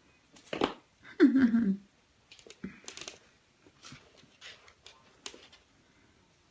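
Kittens playing and jumping: a thump about half a second in, then scattered light taps, scratches and clicks of paws and claws. A brief low voice-like sound falls in pitch at around a second in.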